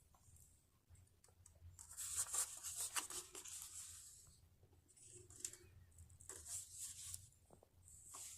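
Faint rustling and scratching, as of something being handled, in two stretches with a few sharp clicks between.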